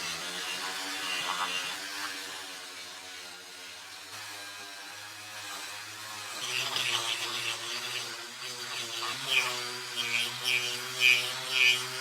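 A small power tool runs steadily, its pitch shifting a couple of times. In the second half it gives repeated rough bursts of grinding or abrading contact.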